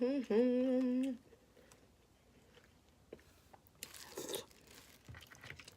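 A drawn-out vocal sound in the first second, then quiet handling of snow crab legs with small clicks and a crunch of shell about four seconds in.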